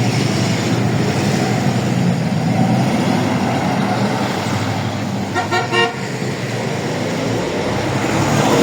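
A bus engine running steadily, with a short horn toot about five and a half seconds in.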